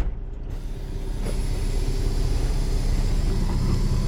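Semi truck's diesel engine running steadily at low revs while reversing, with a faint click about a second in.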